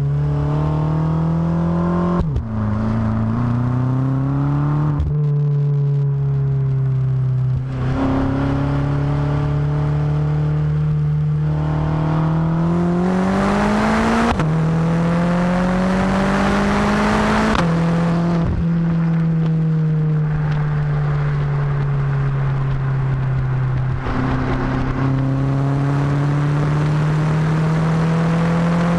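BMW F10 M5's twin-turbo V8 through Supersprint rear mufflers, pulling hard through the gears: the engine note climbs and then drops sharply at each of several upshifts. In the middle it eases off into a long, slowly falling note, then picks up again near the end.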